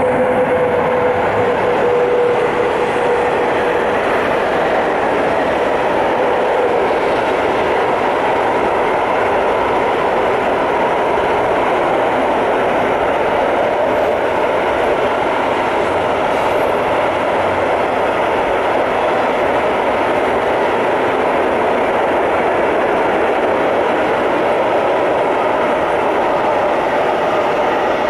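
A long intermodal freight train of semi-trailers on pocket wagons rolling past close by: a loud, steady rumble and rattle of wheels on rails. A whine falls slightly in pitch over the first few seconds.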